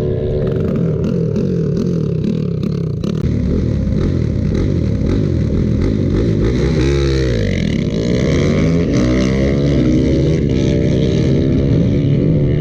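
Motorcycle engines running and revving loudly, more than one at once; the pitch of one drops and climbs again about seven seconds in.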